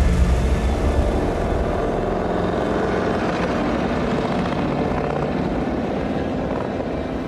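Harley-Davidson motorcycle's V-twin engine running steadily, easing off slightly near the end.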